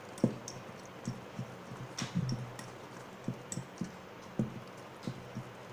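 A utensil stirring chocolate cake batter in a bowl, making irregular soft taps and clicks against the bowl about one or two a second.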